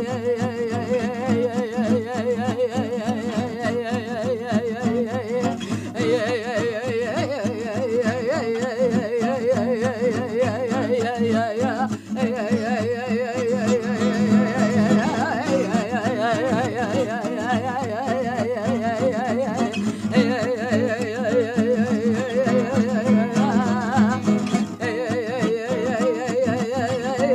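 A song: a wavering, sustained singing voice over instrumental accompaniment.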